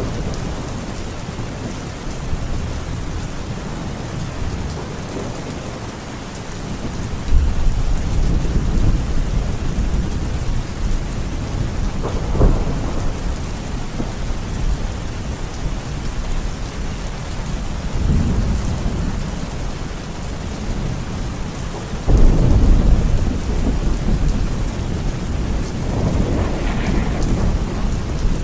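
Steady rain with rolling thunder. Deep rumbles swell up suddenly about a quarter of the way in, again past halfway and near the end, with a sharper crack in between.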